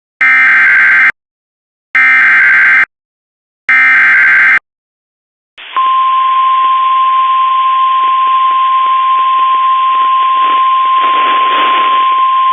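NOAA Weather Radio alert: three short bursts of SAME digital header data, each just under a second, then from about six seconds in the steady single-pitched warning alarm tone over radio hiss. Together they signal the broadcast of a severe thunderstorm warning.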